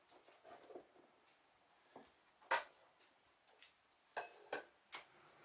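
A few light, separate clicks and knocks of a small part being handled, the loudest about two and a half seconds in and several more close together near the end; no engine running.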